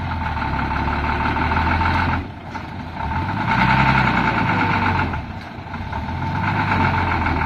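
Heavy truck engine running hard in three long surges, easing back briefly between them, with a steady high whine over the engine note, as the bogged-down six-wheel-drive Hino truck works to get out of the mud.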